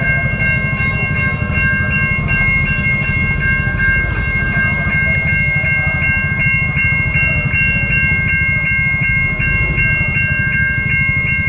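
Electronic warning alarm of a Siemens railway level-crossing barrier, sounding a steady high chord of three notes that breaks into fast even pulses, about three a second, about halfway through. Under it runs the low running noise of a train passing the crossing.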